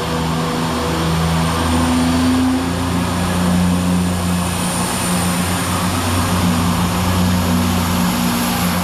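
Diesel engines of a passing diesel multiple unit train running steadily and loudly, their note stepping up slightly about three seconds in.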